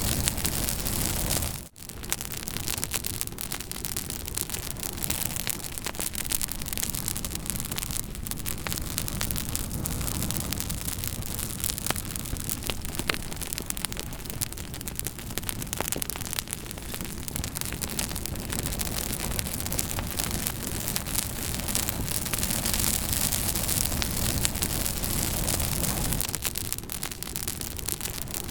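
Campfire burning with a steady hiss and many sharp crackles and pops. The sound drops out for a moment about two seconds in.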